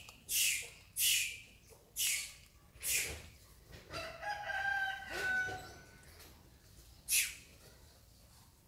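Bird calls: a run of short, harsh calls about once a second, then a longer held call about four seconds in, and one more short call near the end.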